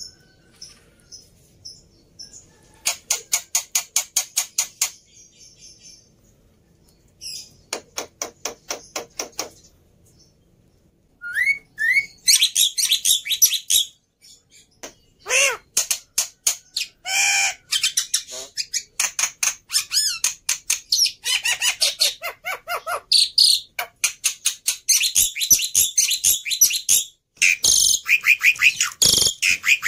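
Black-winged starling (jalak putih) singing: two runs of fast rattling notes lasting a couple of seconds each, then from about a third of the way in a busy, varied stream of squawks, whistled glides and chattering notes that carries on to the end.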